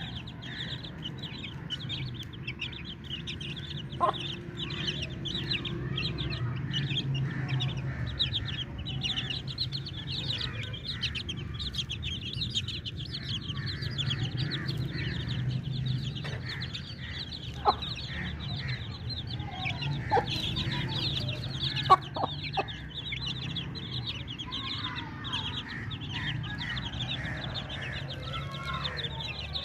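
A flock of chicks cheeping continuously, many short high peeps overlapping, with chicken clucking among them and a few brief sharp clicks.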